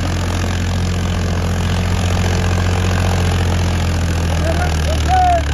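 Powertrac tractor's diesel engine running steadily at a low idle-like pace.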